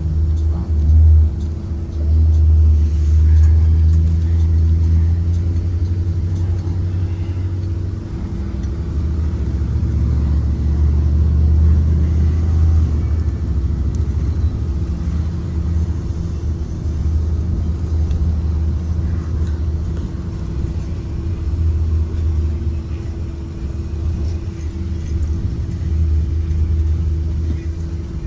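2023 Blue Bird Vision school bus on the move: a steady low rumble with a constant hum running over it.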